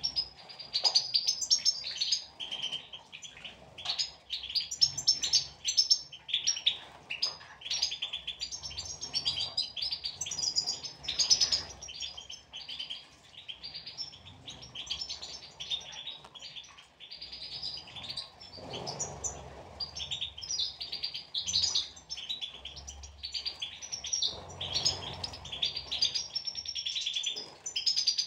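European goldfinches twittering and singing continuously in a dense run of rapid, high chirps, with brief lower rustling noises twice.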